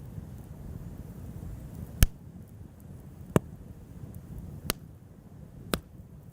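Wood crackling in a campfire: four sharp pops spread over a few seconds, the loudest about two seconds in, over a low steady rumble.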